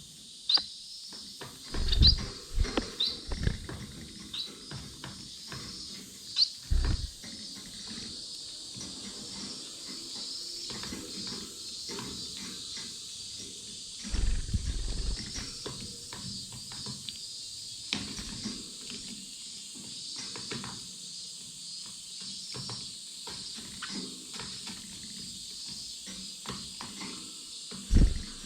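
Small cage finches and canaries at feed: a few short rising chirps in the first seven seconds over steady small clicks of pecking at seed. Several loud low thumps of birds fluttering or landing close to the microphone, the strongest around two seconds in, about fourteen seconds in and near the end.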